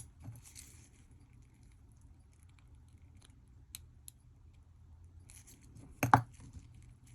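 Small clicks and light rattles of tiny watch parts and tools being handled during reassembly of a digital wristwatch, with one louder short knock about six seconds in.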